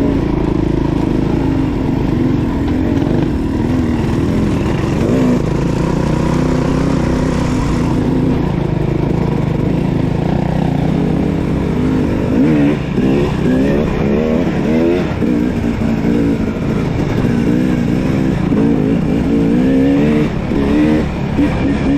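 Dirt bike engine running, its pitch rising and falling again and again as the throttle is opened and closed, with quicker revving in the second half.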